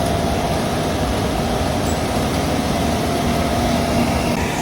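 Large wheat-harvesting machinery running steadily nearby, a dense engine noise with a steady whine over it.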